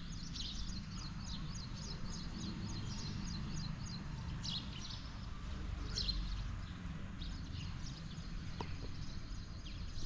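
Small birds chirping in quick runs of high notes, several a second, over the first few seconds and again near the end, with a couple of sharper single calls in between. A steady low rumble runs underneath.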